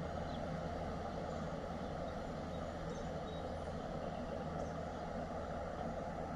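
A steady, even rumble with a low hum underneath, like distant traffic or machinery.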